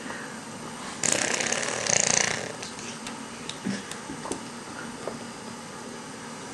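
A baby making weird raspy, breathy noises after eating: two loud hissing bursts about one and two seconds in, followed by a few small clicks.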